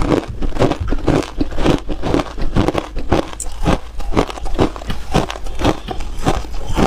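A person biting and chewing hard ice close up: a steady run of sharp crunches, about two a second.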